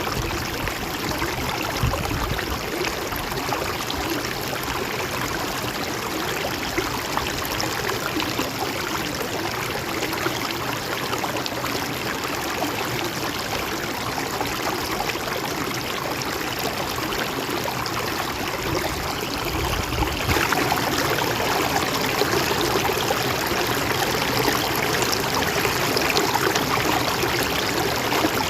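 Mountain stream water flowing and splashing steadily over rocks. About two-thirds of the way through it becomes a little louder and brighter.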